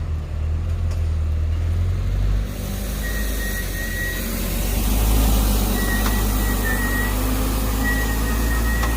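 Heavy diesel truck engine running with a steady deep hum. A louder hiss of engine and road noise comes in about two and a half seconds in, and a thin high whistle sounds on and off through the second half.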